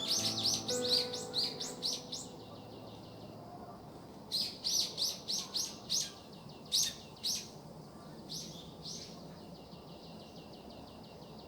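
A small bird singing fast series of high chirps, several a second, in two bouts, the second starting about four seconds in, with softer chirps trailing off after it. Soft background music fades out in the first two seconds.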